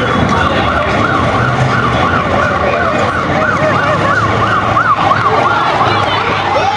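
Emergency vehicle siren on a fast yelp, its pitch swinging up and down about three to four times a second over a steady background din.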